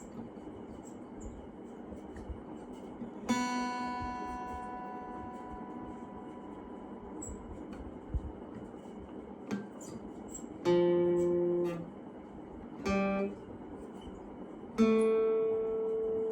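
Slow acoustic guitar music: a few single plucked chords ring out and fade, a few seconds apart, over a faint steady hiss.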